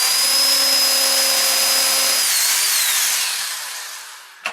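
Electric drill running at full speed while boring a screw hole, with a steady high whine. A little over two seconds in the trigger is let go, and the whine falls in pitch and fades as the motor spins down. A short sharp click comes near the end.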